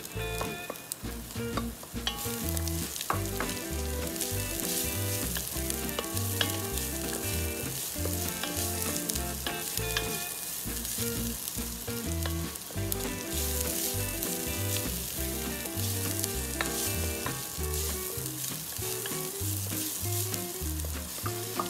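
Julienned ginger sizzling in hot oil with sautéed garlic in an enamelled cast-iron pot, stirred and scraped with a wooden spoon; the sizzle gets louder about two seconds in. Background music with a steady bass line plays underneath.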